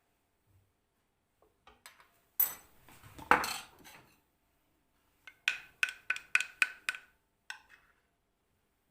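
Kitchenware clattering: a scrape and a sharp knock, then about six quick ringing taps, like a metal spoon striking a dish.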